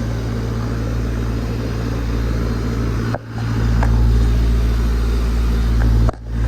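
Central air conditioner outdoor condensing unit running: a steady low hum from the compressor and condenser fan, briefly dropping in level twice.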